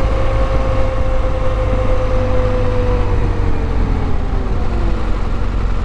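Motorcycle engine running under a deep rumble, its note steady and then falling away from about halfway through as the bike slows down.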